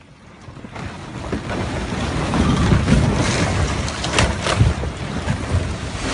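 Rockfall: a rumbling roar of tons of rock crashing down, swelling over the first couple of seconds and peaking in the middle with several sharp cracks and knocks.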